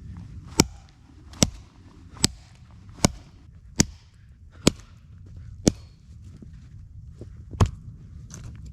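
A series of eight sharp, hard blows at about one a second, the last after a longer pause, over a steady low rumble.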